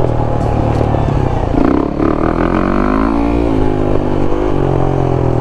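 Motorcycle engines running, with one engine's pitch rising and falling repeatedly as the throttle is opened and eased off.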